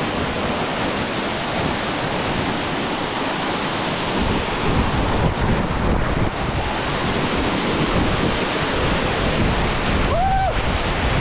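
Waterfall rushing as a steady loud roar, with wind buffeting the microphone more heavily from about halfway in. A short high-pitched cry sounds near the end.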